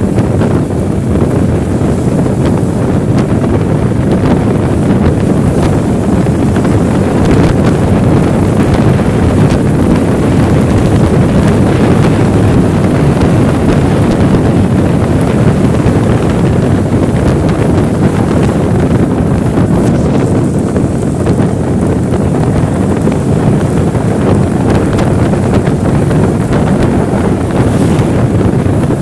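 Loud, steady rumble of wind buffeting the microphone, with no break throughout.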